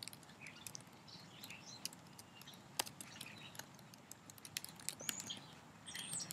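Quiet room with faint, scattered high-pitched chirps and small sharp clicks.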